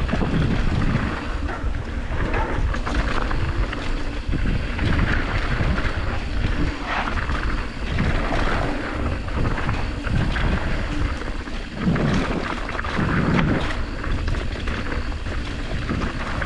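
Wind buffeting a mountain biker's camera microphone while riding a dirt trail, over a steady low rumble and rattle from the tyres and bike on the trail.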